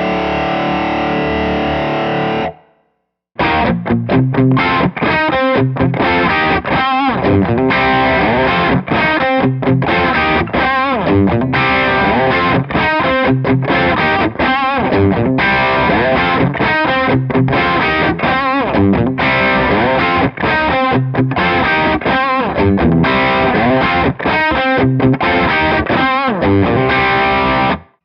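Electric guitar played through an overdriven tube amp: a held distorted chord that cuts off after a couple of seconds, then, after a short break, a continuous rock riff of quick notes and chords that stops suddenly near the end.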